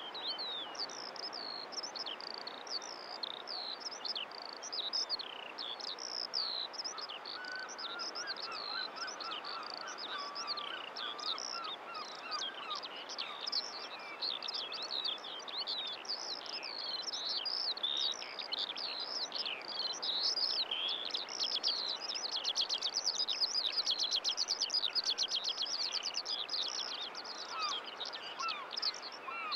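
Dense chorus of songbirds, with many overlapping short chirps and whistles and a lower warbling phrase about a quarter of the way through. A fast trill of rapidly repeated notes, the loudest part, comes about three-quarters of the way through.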